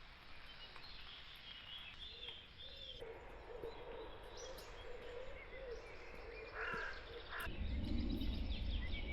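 Outdoor ambience of small birds chirping over a steady background hiss. The background changes abruptly about three seconds in, and again at about seven and a half seconds, where a louder low rumble comes in.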